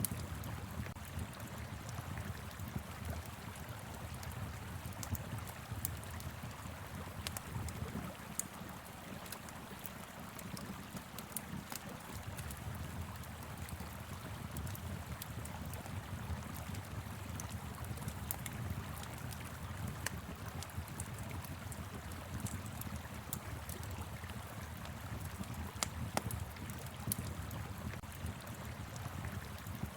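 Steady rush of a flowing river, with frequent small pops and crackles from a wood fire.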